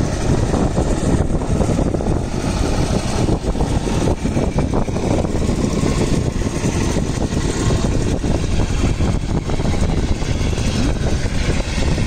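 Steady, loud running noise of a diesel-hauled passenger train in motion, heard from on board, with a low rumble.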